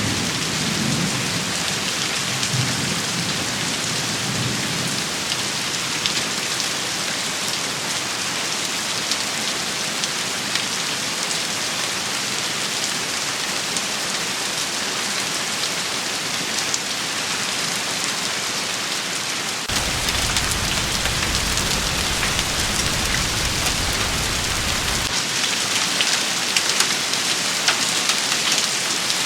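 Steady heavy rain shower pattering on surfaces, dense and hissy with fine individual drop ticks. A low, distant rumble like thunder runs through the first few seconds, and a deeper low rumble joins for several seconds past the two-thirds mark.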